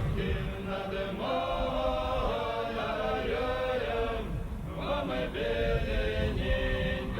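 Choral singing on held and gliding notes with no clear words, from an old recording with little above 4 kHz and a rough rumble underneath.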